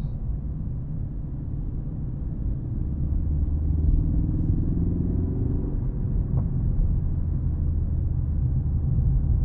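Ford Focus ST engine running while driving, with low rumble and road noise. The engine note rises under acceleration from about two and a half seconds in, then drops away about halfway through and carries on steady.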